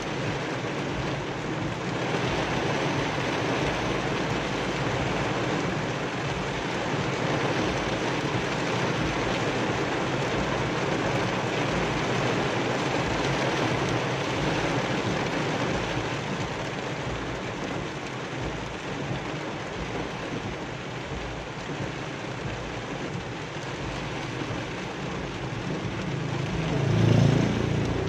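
Heavy rain drumming on a car's roof and windshield, heard from inside the moving car as a loud, steady hiss. Near the end a louder low rumble swells up for about a second.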